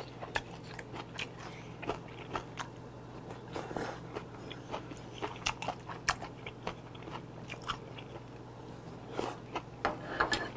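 A man chewing yangjangpi, a cold salad of vegetables and starch sheets, close to the microphone, with irregular crunchy bites and small mouth clicks over a faint steady low hum.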